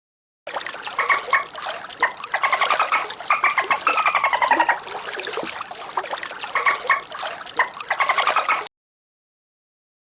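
A group of ducks quacking and chattering in quick, overlapping, pulsed calls that start about half a second in and stop abruptly shortly before the end.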